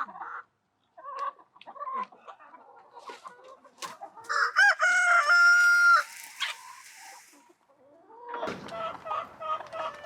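Chickens clucking, with one loud rooster crow lasting about two seconds, starting about four seconds in. From near the end, many birds call at once in a dense, overlapping clucking.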